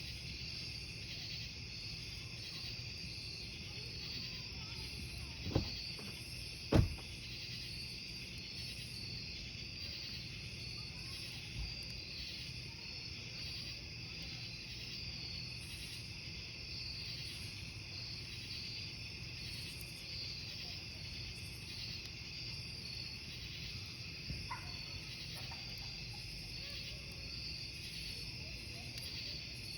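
Crickets chirping steadily over the low hiss of a campfire, with burning wood popping sharply twice about a fifth of the way in and a few fainter crackles later.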